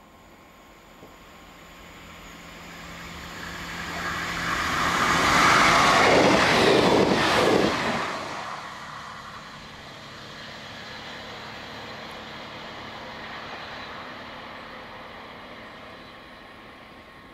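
Class 158 diesel multiple unit approaching and passing at speed. Engine and wheel noise builds up to a loud pass about six to eight seconds in, drops in pitch and falls away sharply, then the rumble of the departing train fades out.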